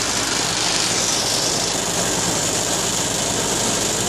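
Farm tractor engine running steadily while the tractor is driven along.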